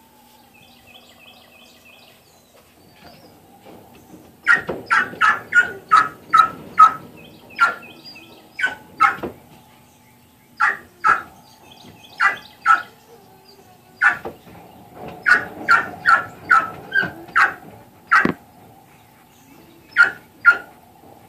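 A dog barking in quick runs of sharp barks, about three a second, with pauses between runs; the barking starts about four and a half seconds in. Faint bird chirps come before it.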